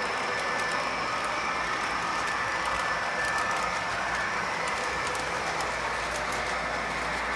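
MTH RailKing O gauge diesel locomotive running steadily around the track, a continuous rolling and motor noise with a thin steady whine.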